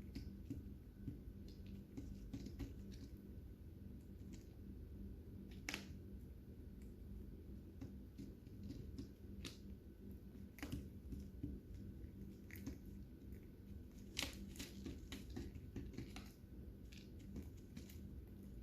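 Lovebirds eating: quiet, irregular crunching and clicking as they bite and chew their food. A faint steady low hum runs underneath.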